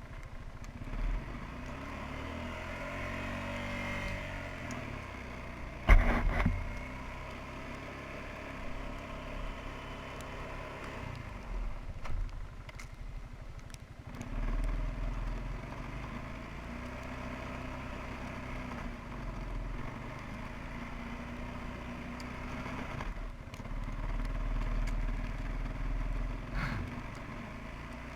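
QuadRunner 300 ATV engine running under load, its pitch rising and falling as the throttle is worked. There is a loud knock about six seconds in.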